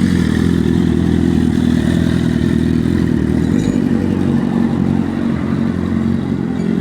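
Superbike engine running steadily and loudly at an even pitch, with no rise or fall in revs.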